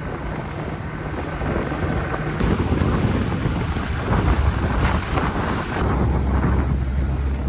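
Boat motor running under way, with wind buffeting the microphone.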